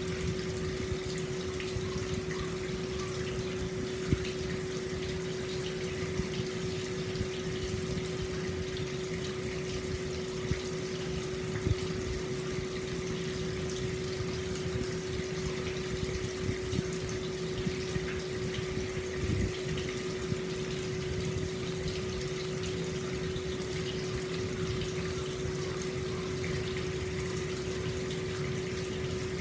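Hot spring water flowing steadily into an open-air bath, a constant rush of water with a few small splashes, over a steady low hum.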